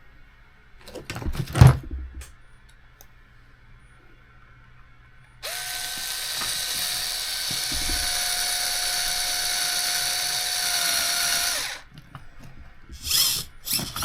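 Small electric screwdriver running steadily for about six seconds at an even pitch, driving a screw home during reassembly of a small RC car, then stopping abruptly. Brief clicks and knocks of parts and tools being handled come before it and after it.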